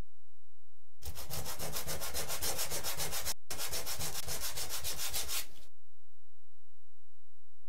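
Wood being sanded with quick, even back-and-forth strokes for a few seconds, with a brief pause partway through.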